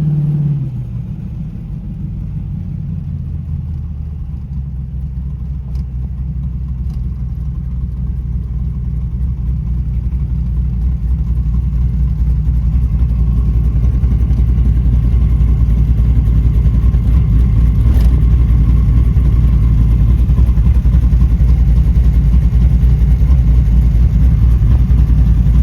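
V8 engine of a Chevy Vega wagon with Sniper fuel injection, running while driving. Its revs drop in the first second, then it runs steadily at a low pitch, growing gradually louder.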